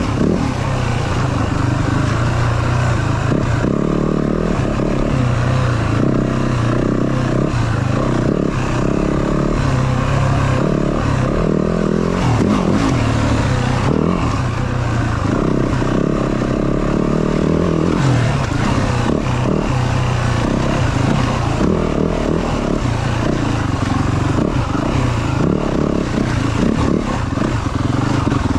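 Yamaha WR450F dirt bike's single-cylinder four-stroke engine running under a rider off-road, its revs rising and falling as the throttle is worked.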